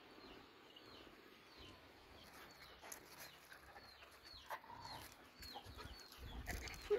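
High, falling chirps from birds repeat about twice a second. A short, louder sound comes near the end and is the loudest moment.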